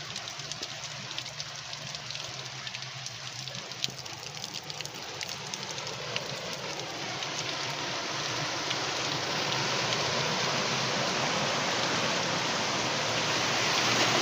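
Heavy rain pattering on the street and rushing floodwater, a steady hiss with fine drop splashes that grows louder over the second half.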